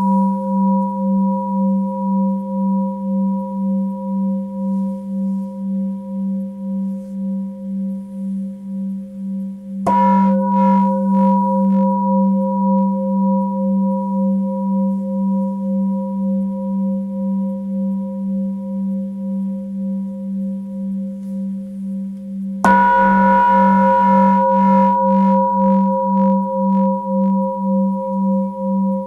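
Tibetan singing bowl struck twice, about ten seconds in and again near the end, still ringing from an earlier strike at the start. Each strike rings on as a long, deep tone with higher overtones that swells and fades in a slow, steady wobble.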